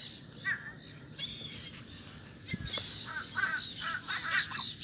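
Birds calling: a rising whistle about a second in, then a quick run of short calls in the last two seconds.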